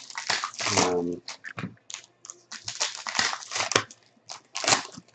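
Plastic wrapping on trading-card boxes and packs crinkling and tearing in a quick, irregular series of rustles.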